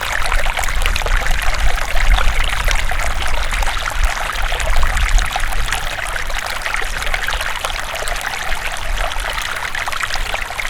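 Water flowing steadily in a stream, a continuous splashing, trickling rush, with an uneven low rumble underneath.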